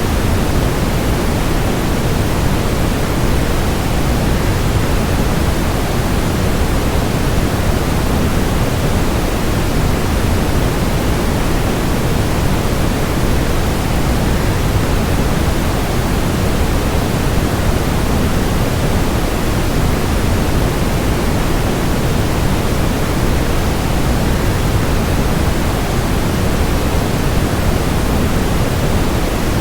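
Steady rushing of a waterfall: an even, unbroken noise of falling water, heaviest in the low tones, with no changes.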